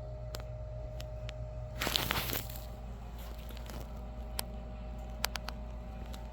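A brief crinkling, tearing rustle about two seconds in, over a steady low hum, with a few light clicks.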